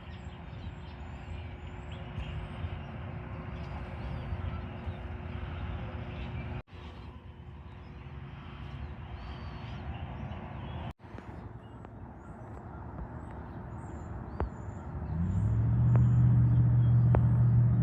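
Steady interstate traffic noise from cars and trucks passing. About three-quarters of the way in, a heavy truck's diesel engine comes in close with a loud, low drone that is the loudest sound here.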